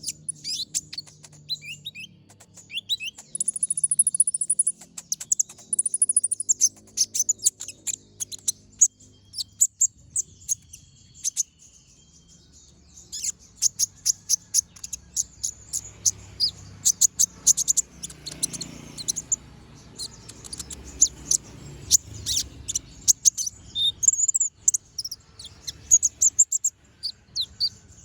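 Kolibri ninja (konin) sunbird singing continuously: a fast, chattering run of very high, sharp chirps and short piercing notes, with a couple of brief high trills.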